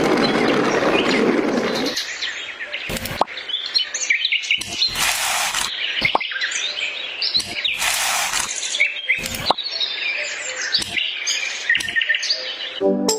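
Small birds chirping and tweeting in quick, overlapping short calls throughout, with a stretch of rushing noise in the first two seconds and a few short bursts of noise later on.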